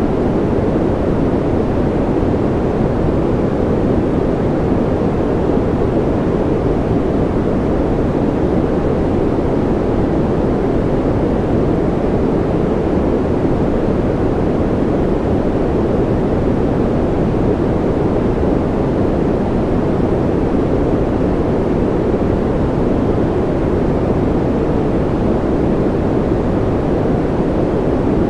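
Steady white noise for infant sleep, weighted deep so it sounds like a low, even rush with little hiss. It does not change.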